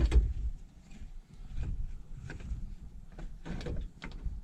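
Clunks and knocks of the air-conditioner cooling fan assembly being handled and pushed into place in the truck's engine bay: a heavy thump at the start, then scattered lighter knocks and clicks.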